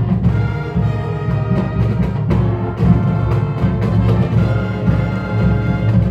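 Marching band playing: brass chords over timpani and percussion, with a full low end and frequent drum strikes.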